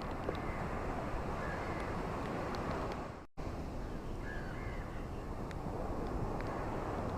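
Steady wash of ocean waves, with a few faint bird calls. The sound cuts out for an instant a little over three seconds in.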